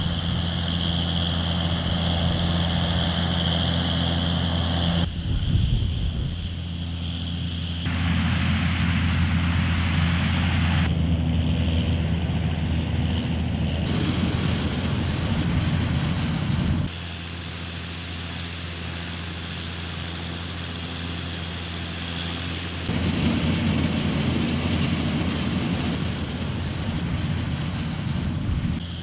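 John Deere 6530 tractor running steadily at working revs while pulling a round baler through straw. Its deep, even hum shifts abruptly in level and tone several times.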